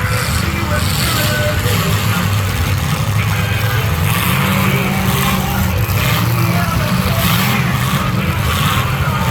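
Demolition derby cars' engines running loud and steady, with a dense low drone from several unmuffled engines at once.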